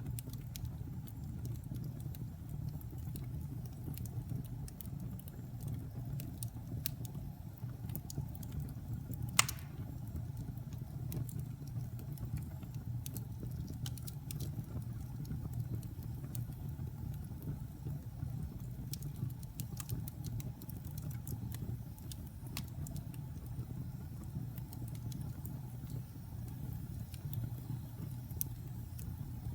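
Log fire burning in a fireplace: a steady low rumble of the flames with scattered crackles, and one louder pop about nine and a half seconds in.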